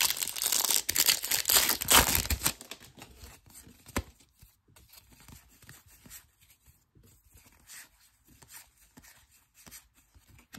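A foil trading-card pack wrapper being torn open and crinkled, loud for about the first two and a half seconds, then fainter rustling and small clicks of cards being handled.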